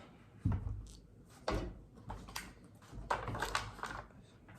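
Handling noise: a few short knocks and rustles of things being moved, with a longer spell of rustling about three seconds in.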